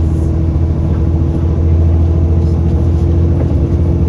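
Alexander Dennis Enviro400 double-decker bus on a Trident chassis, its diesel engine and drivetrain running steadily with a low drone and a steady higher whine.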